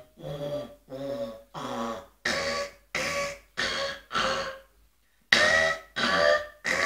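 Beatboxer's robot sound: a vocalised duck sound, buzzing as air is pushed out both sides of the mouth with the tongue on the roof behind the upper teeth. It comes as short repeated pulses, about seven, then a brief pause and three louder ones, and moving the cheeks changes the sound.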